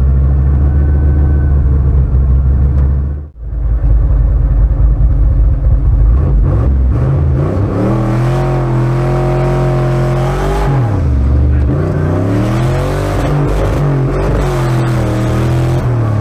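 Loud car engine running, cutting out briefly about three seconds in, then revving up and down repeatedly.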